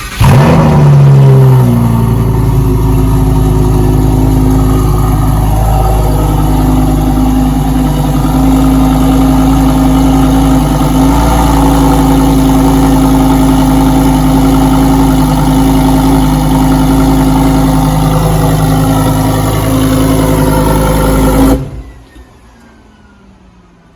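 Lamborghini engine cold-starting, heard from behind the car at the exhaust: it fires and flares up in the first second or so, then holds a loud, steady fast idle. About twenty seconds in it is switched off and stops abruptly.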